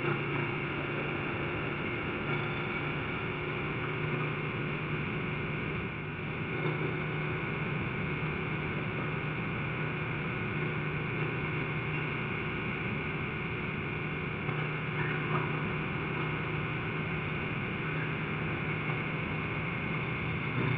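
Steady drone of a vehicle on the move: engine running at an even pitch under a constant rush of road and wind noise.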